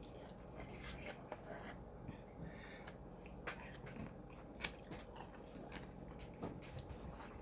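Faint eating sounds: a person biting and chewing Jollibee fried chicken, with a few soft, short clicks, the sharpest a little past halfway.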